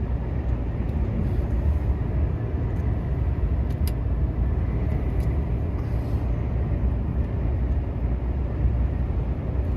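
Volvo semi-truck under way, its diesel engine droning steadily under a low road rumble, heard from inside the cab. A couple of faint ticks come about four seconds in.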